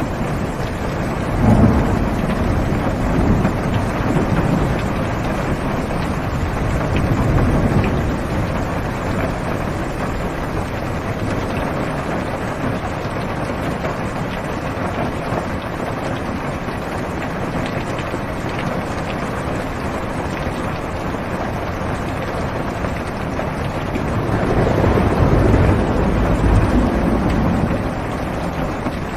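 Steady heavy rain falling on a car's roof and windows, heard from inside the cabin. Low thunder rumbles a second or two in, again briefly around seven seconds, and rolls longer near the end.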